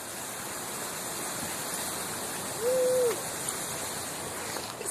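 Steady rushing noise like running water, with a single short hooting bird call about two and a half seconds in that rises, holds and falls.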